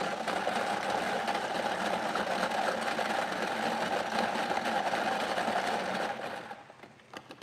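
Prize-draw lottery machine running after its button is pressed: a steady, dense mechanical rattle that starts suddenly, runs for about six seconds and then dies away.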